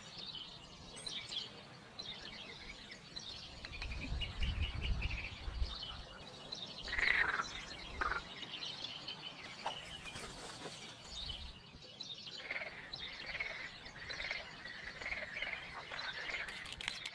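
Small birds chirping and calling, with a brief low rumble about four seconds in.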